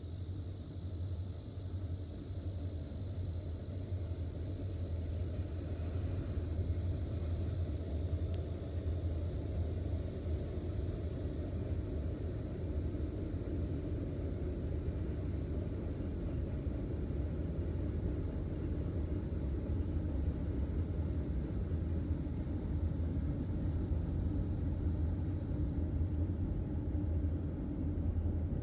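Diesel freight train rumbling steadily at a distance, slowly growing a little louder, over a steady high buzz of insects.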